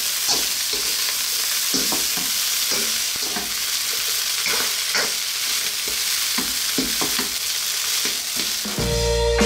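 Fried rice sizzling in a hot carbon-steel wok while a spoon stirs and scrapes it against the pan, in repeated short strokes over a steady hiss; the crackle is the rice frying until browned. Music starts just before the end.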